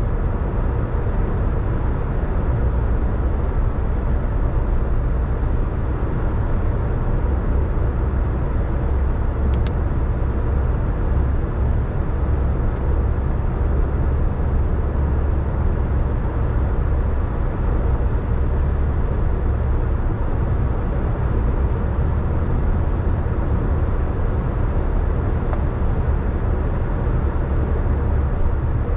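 Car driving along a wet road: a steady low rumble of tyres and engine that does not change, with one brief high tick about ten seconds in.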